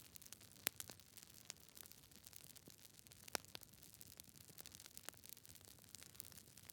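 Campfire crackling: irregular sharp pops and snaps of burning wood over a faint hiss, the loudest pops about a second in and just past three seconds.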